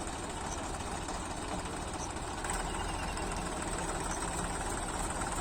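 Tractor diesel engine running steadily, getting a little louder about halfway through.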